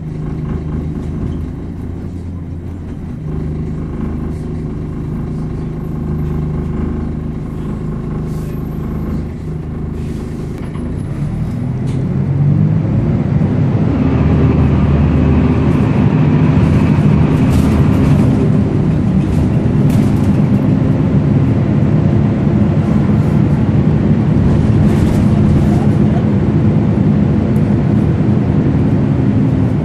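Volvo B10BLE bus's rear-mounted six-cylinder diesel running at low revs, then picking up about twelve seconds in and pulling away under load, louder and higher, holding that to the end.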